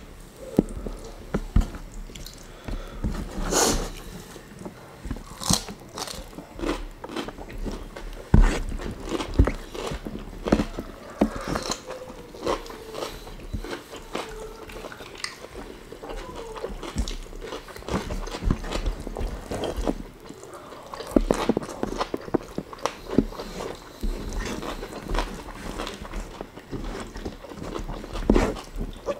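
Close-up eating sounds of two people eating rice and fried chicken with their hands: biting, chewing and crunching, with irregular wet smacks and mouth clicks.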